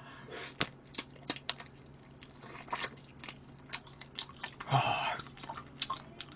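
Close-miked chewing and biting of spicy chicken feet: many short wet smacks and clicks from the mouth, with a short louder rush of noise about five seconds in.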